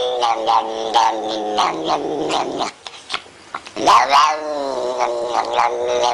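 Tortoiseshell cat yowling in long, drawn-out howls that sink slowly in pitch. A short pause comes a little before halfway, followed by a louder howl that rises and falls.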